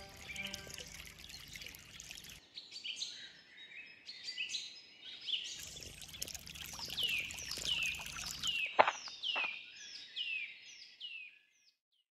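A bird calling a series of short, falling whistled notes, about two a second, over faint outdoor background noise. One sharp click sounds about nine seconds in.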